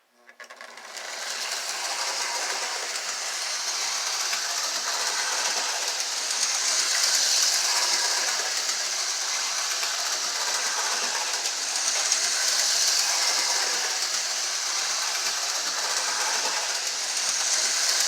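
Lionel O gauge model of the 'The General' 4-4-0 steam locomotive running on track: the steady whir of its electric motor and gearing with the rattle of its wheels on the rails. It starts up about half a second in and swells and eases a few times.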